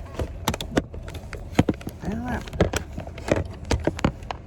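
Handling noise of a dropped phone being picked up: a run of sharp clicks and knocks, over the steady low hum of a vehicle. A brief voiced sound comes about two seconds in.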